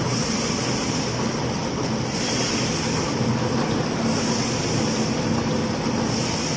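Automatic cutlery packing machine running: a steady mechanical hum with a high hiss that swells about every two seconds as it cycles.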